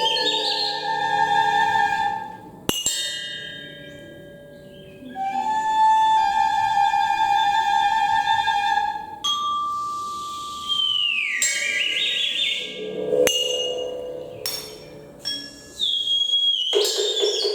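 Children's creative percussion ensemble playing: held ringing tones, several notes that slide down in pitch, and a few sharp strikes. There is a quieter stretch about four seconds in before the held notes come back.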